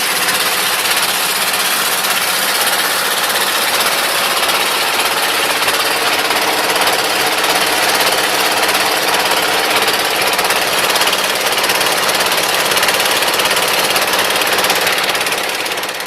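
Small boat's engine running steadily with a rapid, knocking beat and a constant pitch, cutting off suddenly at the end.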